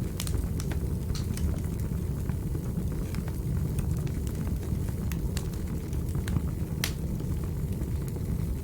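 Wood fire burning in a fireplace: a steady low rumble of the flames with irregular crackles and pops, one sharper pop about seven seconds in.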